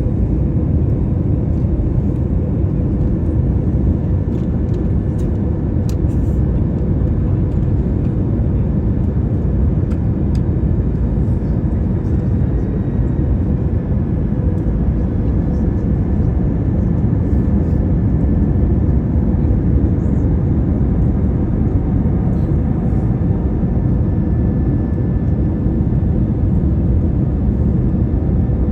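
Airliner in flight on its approach for landing, with a steady low rumble of engines and airflow and a faint steady whine above it.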